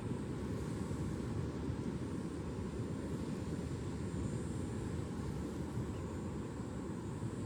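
Steady low rumble of distant ocean surf, an even rushing noise with no distinct wave breaks, and a faint high steady whine above it.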